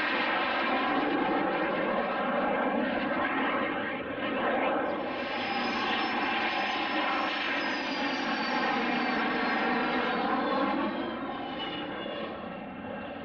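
Aircraft engines running as a plane passes close by, a steady engine noise whose tones bend slowly in pitch as it goes over. It fades a little near the end.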